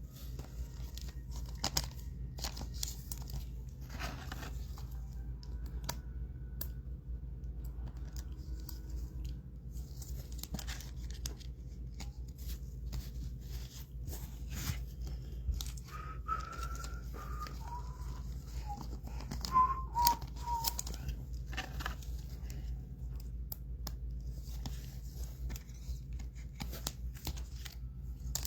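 Trading cards and foil pack wrappers being handled: sporadic crinkling, tearing and small clicks over a steady low hum. A few faint, short whistled notes come a little past the middle.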